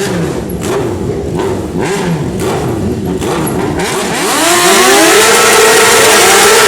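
Sport motorcycle engine revved in a series of short throttle blips, then about four seconds in revved hard and held at high revs, much louder.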